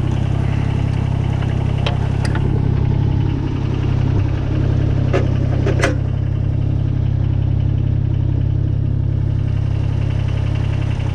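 Kubota BX22 compact tractor's three-cylinder diesel engine idling steadily at low idle, with a few short sharp clinks about two seconds and five to six seconds in.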